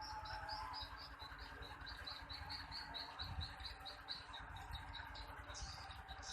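Swiftlets chirping: a quick, even run of short high chirps, about five a second, over a low background hum.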